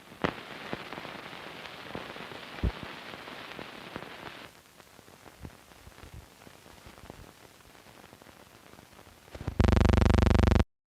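Crackle, hiss and scattered pops from a worn early-1930s optical film soundtrack, with no dialogue or music. Near the end a loud buzzing tone sounds for about a second and cuts off abruptly.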